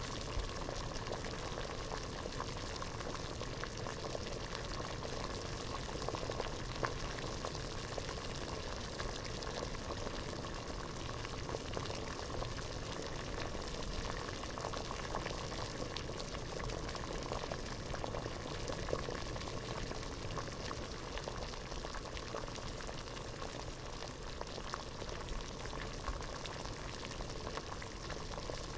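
Water at a rolling boil in a pot: a dense, steady bubbling made of many small pops.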